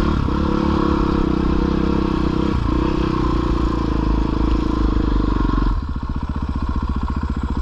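Four-stroke 450 dirt bike engine pulling under throttle, with two brief breaks in the note, then backing off about six seconds in to a low, even chugging.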